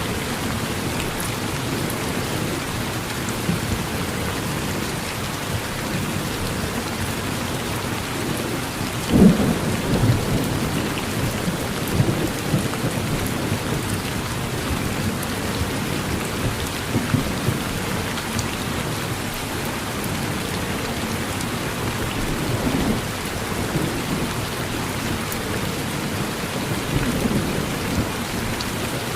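Steady rain falling on a porch, with brief low rumbles of thunder, the loudest about nine seconds in.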